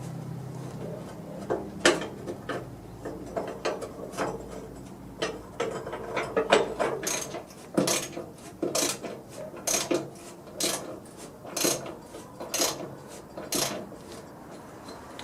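Metal hand-tool clicks and clinks during mechanical reassembly work: scattered at first, then a regular series of sharp clicks about once a second from about halfway through.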